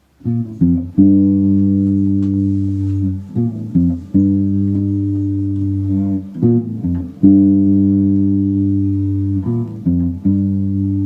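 Instrumental intro of a reggae song: guitar and bass chords held about three seconds each, with short runs of changing notes between the chords.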